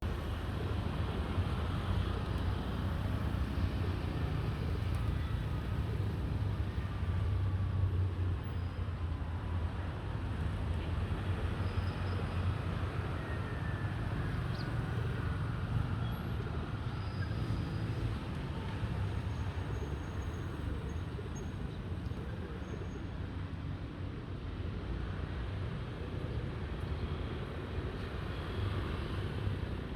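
Steady low outdoor rumble with no pauses, with faint sliding high tones now and then.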